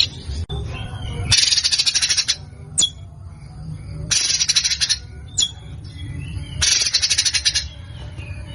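Songbird song from a bird-training (masteran) recording: three harsh, very rapid high trills of about a second each, with single sharp high chips between them.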